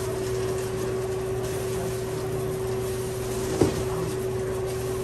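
Steady machine hum carrying one constant mid-pitched tone, with a single sharp knock about three and a half seconds in.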